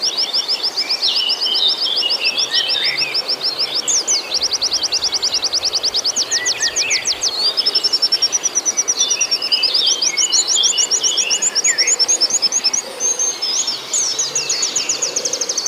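White-eye (pleci) song: long, fast, high trills of rapidly repeated notes, mixed with shorter chirps and twitters, continuing without a break.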